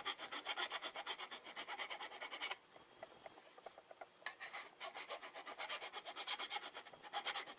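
A raised seam on a Harley-Davidson Street 750's stock metal silencer being rubbed down by hand in quick back-and-forth strokes. The strokes stop for about a second and a half before the middle, then start again.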